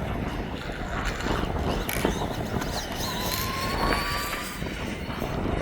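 Wind buffeting the microphone. Midway, the electric motor of a Losi ProMoto RC dirt bike whines as a thin tone, rising slightly for about a second and a half.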